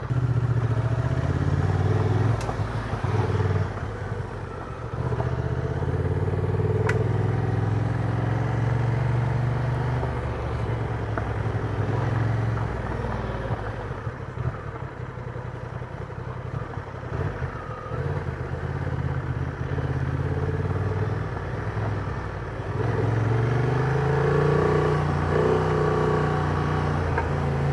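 Honda Transalp motorcycle engine running under way on a rough back road, its note easing off and picking up again as the throttle is rolled off and opened, with a rising rev about three quarters of the way through.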